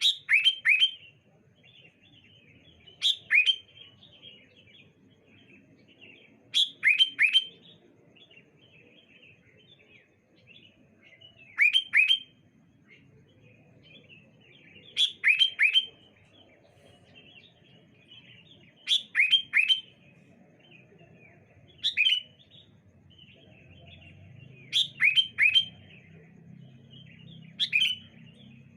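Sooty-headed bulbuls (kutilang) calling back and forth: short, loud phrases of two to four quick falling notes about every three to four seconds, with soft twittering between.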